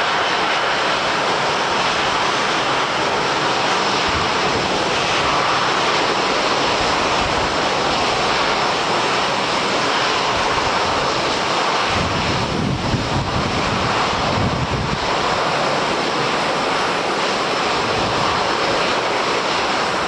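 Airliner engines running through a takeoff or landing, a loud steady noise with a stronger low rumble about twelve seconds in that eases after a few seconds.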